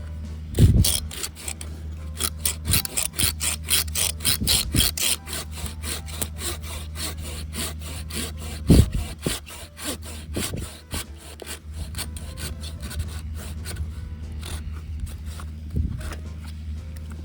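Hand saw cutting through firewood in quick, even back-and-forth strokes that slow and fade after about 11 seconds, with a couple of knocks of the wood shifting, over a steady low hum.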